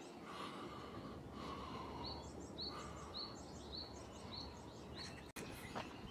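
A small bird calling a quick series of short, high notes, about three a second, for a couple of seconds, over a steady outdoor background hiss.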